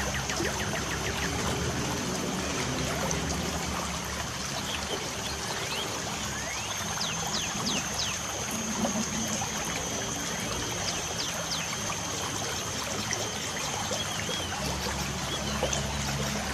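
Light rain trickling and dripping in a steady wash, with birds chirping in short calls and quick sweeping notes throughout, over a steady high thin tone.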